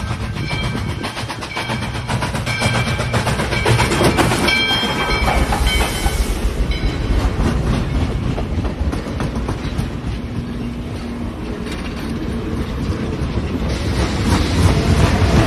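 A steam-hauled passenger train passing close by: a low rumble with steady wheel clatter over the rail joints as the cars roll past, loudest near the end. A bell clangs repeatedly during the first few seconds.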